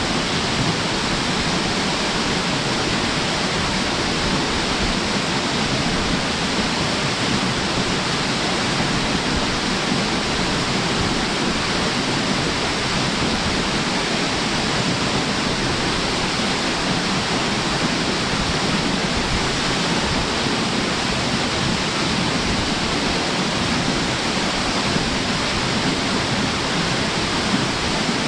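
Waterfall pouring with force into its pool: a steady, even roar of falling water that does not change.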